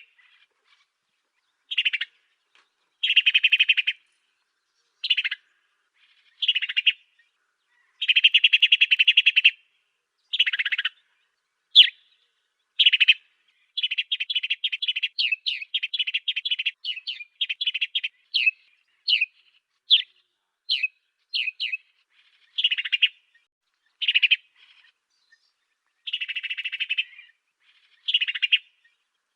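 An African sparrow ("burung gereja Afrika") singing in a tutor recording for cage birds. Short buzzy chattering phrases of about half a second to a second and a half are broken by clean silences. Midway comes a longer run of quick chirped notes, several a second.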